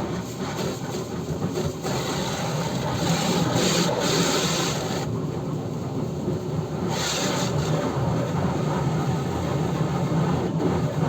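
Car-washing noise: a steady low hum, with a stretch of louder hiss from about two and a half to five seconds in and a shorter one about seven seconds in.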